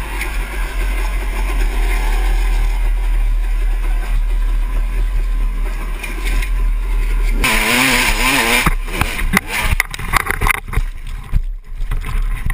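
Dirt bike engine running steadily. About seven seconds in, an abrupt change to an engine revving unevenly up and down, followed by scattered knocks and clatter.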